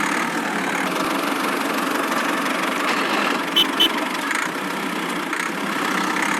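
An engine running steadily with an even, gritty hum and no low rumble. About halfway through come two short high beeps.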